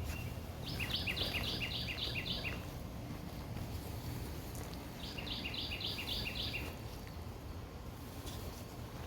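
A songbird singing two phrases, each a quick run of repeated paired notes lasting about two seconds, over a steady low rumble of wind.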